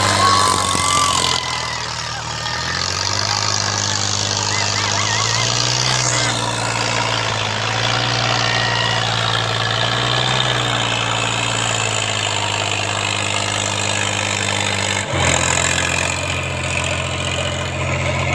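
Eicher 557 tractor's diesel engine running steadily, its speed dipping about a second and a half in, rising and falling a few times through the middle, and changing sharply near the end.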